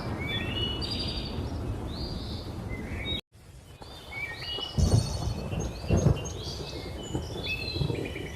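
Several tropical birds chirping and calling over the steady low rumble of a thunderstorm; the sound cuts out briefly about three seconds in, then two loud thunder cracks come near 5 and 6 seconds.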